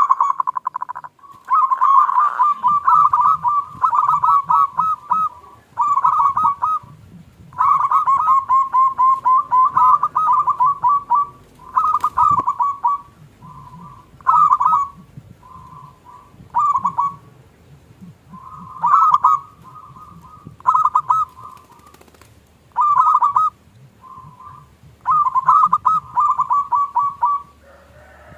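Zebra dove (perkutut) singing: rapid, pulsing coo phrases of a second or two each, repeated over and over with short pauses between them.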